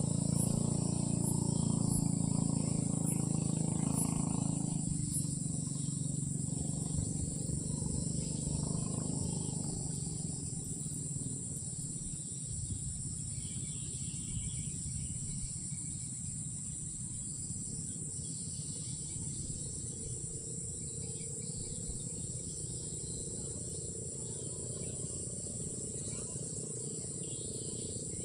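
Night insect chorus, a steady high-pitched drone of crickets, with a low droning sound under it that fades away over the first ten seconds or so.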